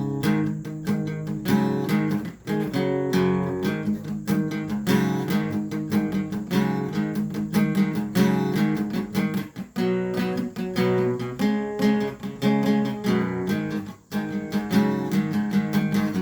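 Acoustic guitar playing an instrumental passage, strummed chords with quick, frequent strokes.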